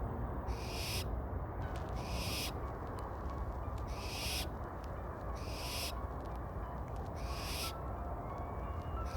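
An owl giving short, harsh, hissing screeches, six in a row about one every one and a half to two seconds, over a steady low rumble.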